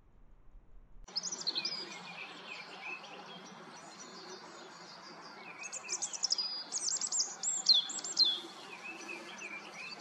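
Several small birds chirping and singing, starting abruptly about a second in with quick, high notes. They are busiest and loudest between about six and eight and a half seconds, over a steady background hiss.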